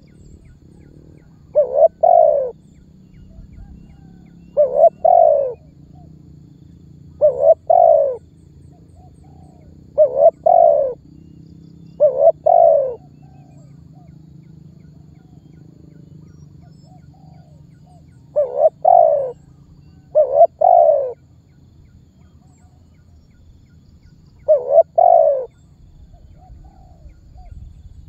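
Spotted dove (tekukur) cooing its call phrase eight times, each a short run of two or three falling notes, with a pause of several seconds midway. This is the dove's calling song, used as a lure to set other doves calling.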